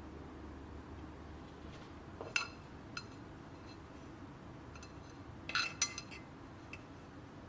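Hard dishware clinking: a few short, light clinks with a brief ring, two apart near the start and a quick cluster of louder ones later, over quiet room tone.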